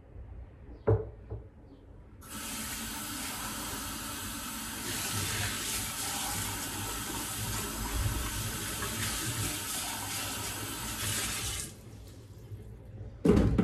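Water running from a tap into a sink for about nine seconds, growing louder partway through, then turned off. A sharp knock comes about a second in and another just before the end.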